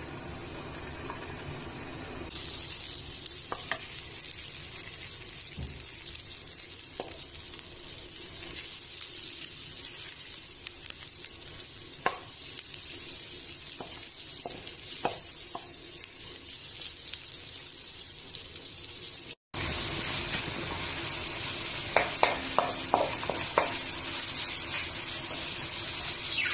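Oil sizzling in a metal wok, with a few sharp spatula clicks; after a brief cut, shredded chicken frying in the wok, louder, as a wooden spatula stirs it with a quick run of knocks against the pan.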